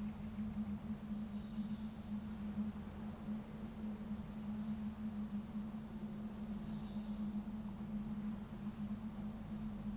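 Outdoor coastal ambience: a steady low hum with a low rumble beneath it, and short high bird chirps and trills every second or few.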